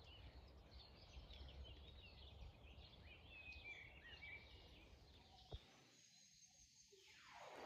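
Faint chirping of small birds, scattered short calls during the first half, over a quiet outdoor background; after about five seconds the birds stop and it falls to near silence.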